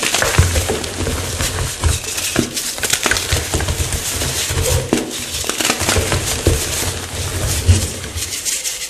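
Chalk blocks crunching and crumbling: a dense, irregular run of sharp crackles over dull thumps.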